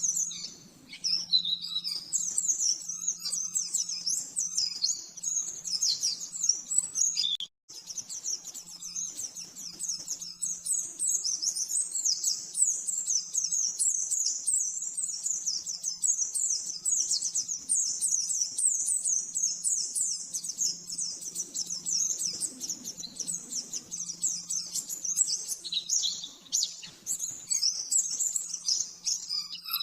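White-eye (pleci) singing a fast, continuous high twittering song, the rapid 'nembak' (machine-gun) style used for masteran training. It cuts out for a split second about eight seconds in, over a faint steady low hum.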